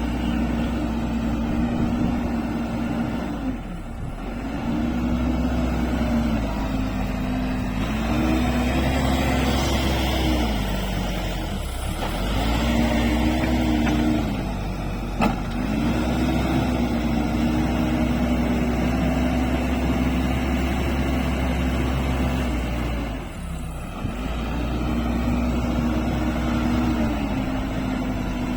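Backhoe loader's diesel engine running under working load, its revs rising and falling every few seconds. A single sharp knock comes about halfway through.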